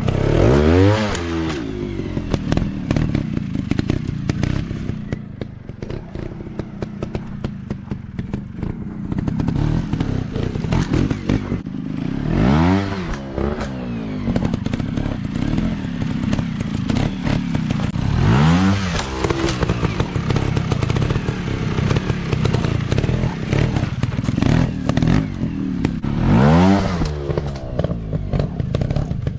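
Dirt bike engines running and revving up and down in repeated bursts, about every six to eight seconds, with many sharp knocks and clicks throughout.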